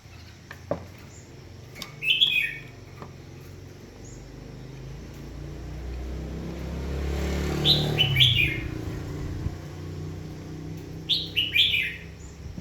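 A small bird chirping in three quick bursts of short, falling notes. Under them a low engine hum swells to a peak midway and then fades.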